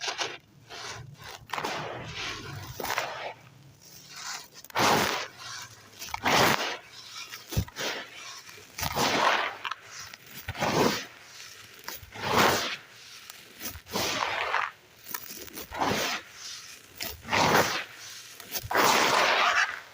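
Dry, gritty red sand clumps crumbled by hand: a series of gritty crunches about every second and a half, with a longer one near the end.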